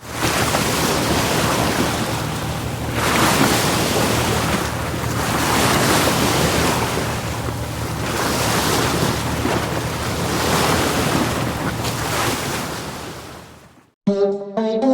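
Strong gusty wind buffeting the microphone, swelling and easing every second or two over a steady low hum. It fades out just before the end.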